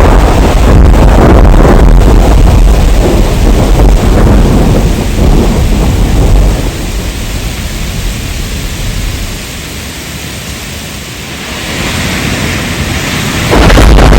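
Heavy rain with rolling thunder, loud and deep at first, dying away about halfway through to quieter rain, then cutting back in suddenly at full loudness near the end.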